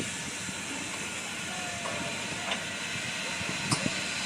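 Santa Fe 2926, a 4-8-4 steam locomotive, hissing steadily as it stands under steam, with a few sharp metallic clanks near the end.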